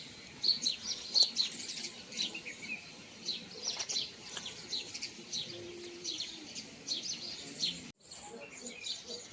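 Small birds chirping outdoors: many short, high calls that fall in pitch, several a second, overlapping throughout, with a brief break near the end.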